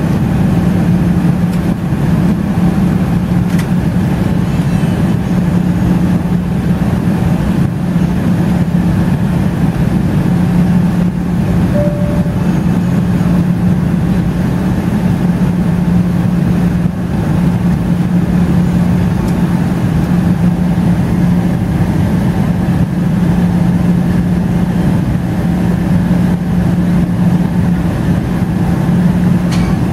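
Steady jet engine and airflow noise of a Boeing 777-300ER in flight, with a constant low hum and no change in level.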